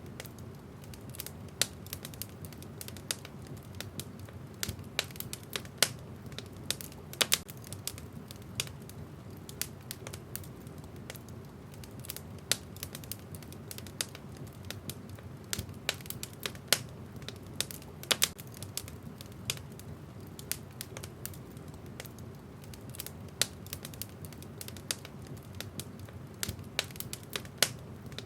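Wood fire in a fireplace crackling: irregular sharp pops and snaps of burning logs over a steady low rumble of the flames.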